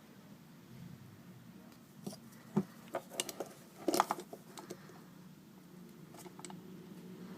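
A scattered run of small clicks and taps, clustered in the middle, over a faint steady hum that grows a little louder near the end.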